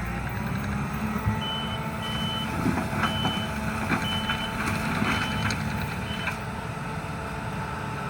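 A skid steer's engine runs steadily while its reverse alarm beeps about once a second. The beeping stops about six seconds in as the machine stops backing up.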